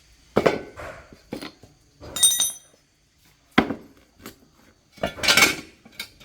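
A series of clinks and knocks of hard objects being handled. One strike about two seconds in rings briefly, and there is a longer scraping clatter near the end.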